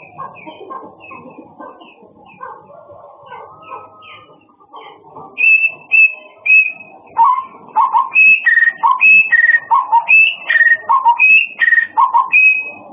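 A murai songbird singing: soft high chirps at first, then from about five seconds in a loud, clear whistled song of short notes at three or so pitches, repeated over and over in quick succession.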